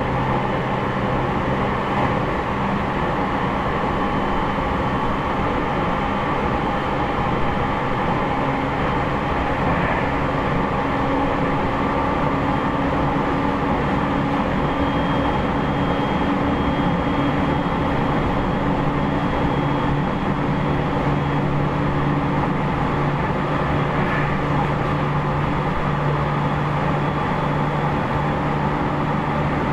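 Interior running noise of a JR East E501 series electric train's motor car (Toshiba IGBT VVVF inverter) travelling between stations: a steady rolling rumble with a low motor and inverter hum and faint air-conditioning noise, plus a couple of light clicks from the track.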